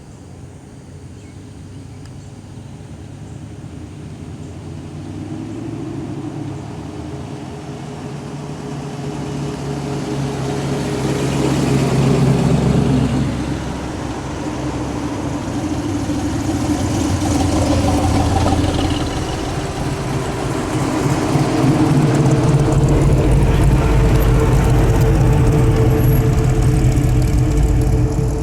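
A car engine running and getting louder over about twelve seconds, easing briefly, then building again and holding loud with a deep low rumble through the last several seconds.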